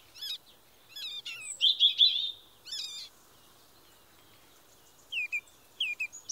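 Small birds chirping: quick bursts of high, twittering chirps in the first three seconds, then a few short falling chirps near the end.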